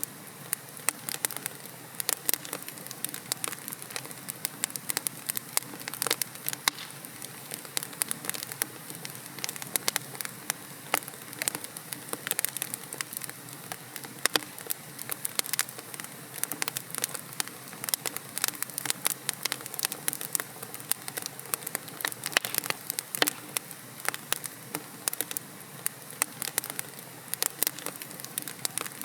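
Wood logs burning in a fireplace: a soft steady hiss of the fire with dense, irregular sharp crackles and pops, several a second.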